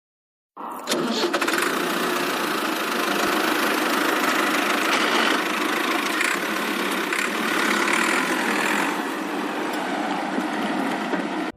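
A motor running steadily, starting abruptly about half a second in and cutting off suddenly at the end.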